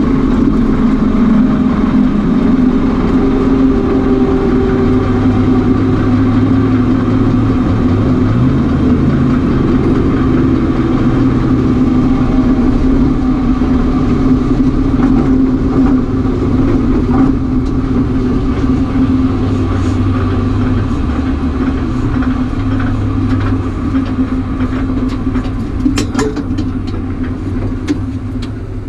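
A vehicle engine idling steadily, with a few sharp clicks near the end.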